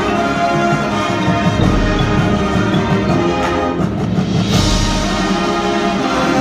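High school marching band playing a full ensemble passage: brass and winds holding chords over percussion, with a bright crash about two-thirds of the way in.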